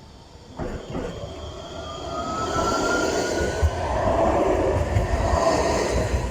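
A Nottingham tram pulling away with a rising electric motor whine, over rolling rail noise. A low rumble builds up near the end, as the approaching diesel train comes close.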